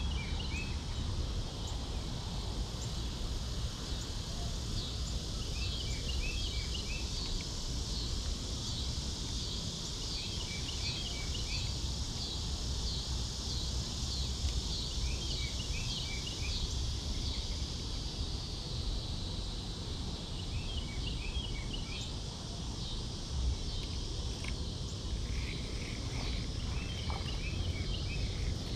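A songbird repeats the same short phrase of quick notes about every five seconds, over a steady high hiss and a low rumble.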